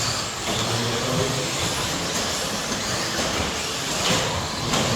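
Electric 1/10-scale RC stadium trucks with 13.5-turn brushless motors racing on an indoor dirt track: a dense wash of motor and tyre noise, with a brief louder burst about four seconds in.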